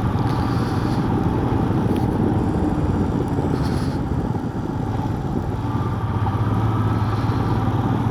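Motorcycle engine running steadily while under way on the road, under a dense rushing noise. The low engine note grows a little stronger in the second half.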